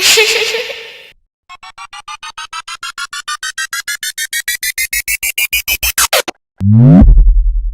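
A run of electronic sound effects: a short noisy burst with a held tone, then a synthesized beeping that speeds up and rises in pitch for about five seconds before cutting off, then a quick falling tone that drops into a low steady buzz near the end.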